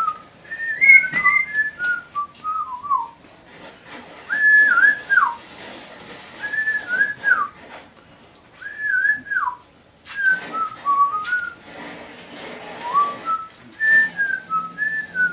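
Whistling in short melodic phrases of clear notes, several of them a held high note that drops away at the end, repeated with brief pauses.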